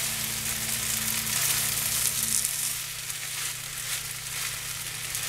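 Chicken fried rice sizzling in a frying pan as it is stirred: a steady, even hiss, with a low steady hum underneath.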